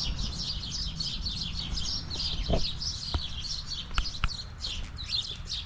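A flock of sparrows chirping in a constant, overlapping chatter, with a few sharp clicks around the middle.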